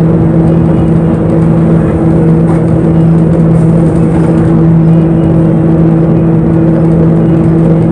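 Bus engine running steadily, heard from inside the passenger cabin: an even, loud drone with a low held hum and road noise, with no gear changes or stops.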